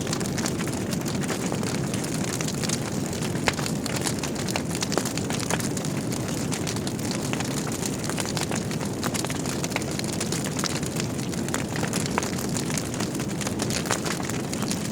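Wood logs burning in a fireplace: a steady low rush of flames with frequent small crackles and snaps, and one sharper pop about three and a half seconds in.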